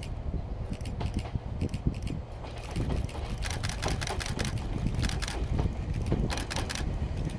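Wind rumbling on the microphone, with a run of irregular clicks and rattles that grows busier from about three seconds in as a train approaches along the track.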